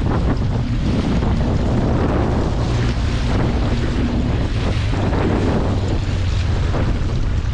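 Strong wind buffeting the microphone over a boat motor running steadily, with choppy water splashing against the hull.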